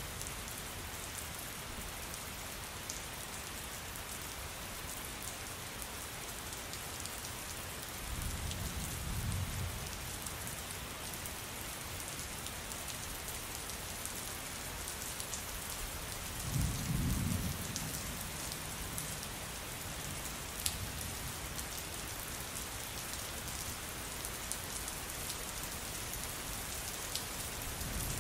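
Steady heavy rain falling on a surface, with scattered drip ticks, and thunder rumbling low twice: once about a third of the way in and again, louder, a little past the middle.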